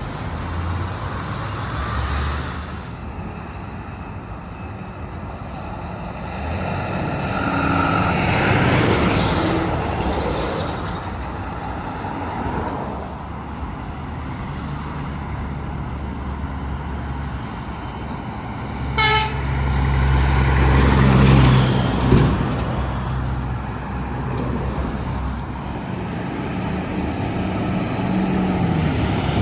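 Highway traffic with heavy trucks passing close by, their diesel engines rumbling loudest about two-thirds of the way in. A short horn toot sounds just before that loudest pass.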